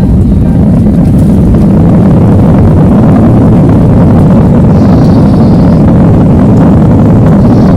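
Loud, steady noise of an airliner's jet engines heard from inside the passenger cabin as the plane moves at speed.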